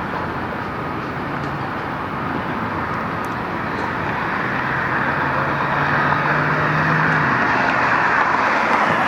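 Road traffic noise, with a vehicle passing and growing louder through the second half, and an engine hum for a few seconds in the middle.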